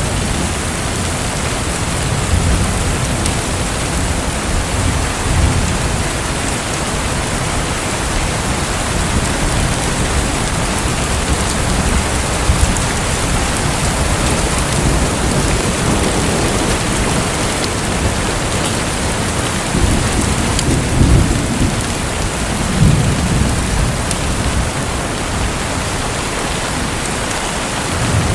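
Steady hiss of water with no break, and low rumbles swelling briefly a few times.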